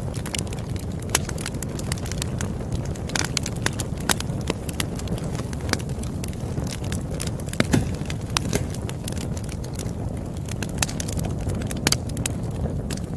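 Campfire burning: a steady low rumble of flames with irregular crackles and sharp pops of burning wood, a few louder snaps scattered through.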